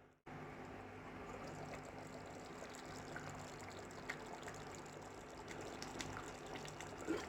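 Fish curry simmering in a pan: a quiet, steady bubbling with scattered small pops as the fish cooks in the gravy.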